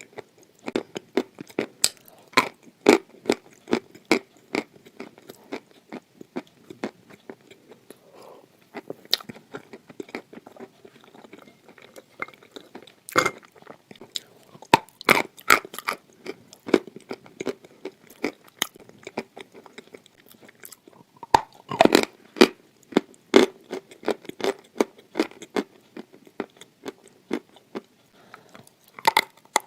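Hard red clay being bitten and chewed close to the microphone: a long run of crisp crunches, with louder bites now and then.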